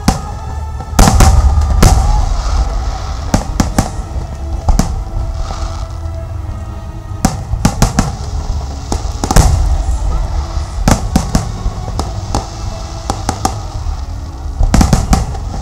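Aerial fireworks going off: many sharp bangs and crackling bursts in quick clusters over a continuous low rumble, with music playing underneath.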